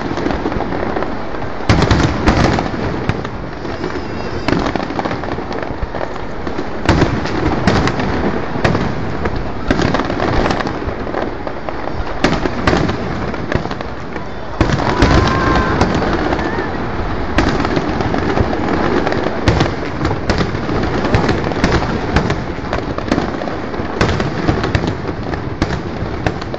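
Aerial fireworks going off in a dense, continuous barrage: many sharp bangs and crackling bursts overlapping, with a short whistling glide about halfway through.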